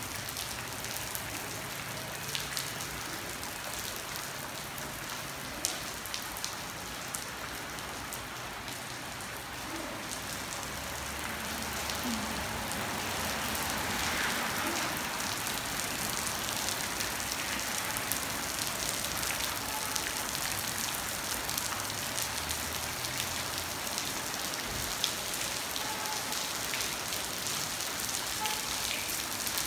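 Steady rain falling on a street, with scattered sharp drop ticks; it grows a little heavier about twelve seconds in.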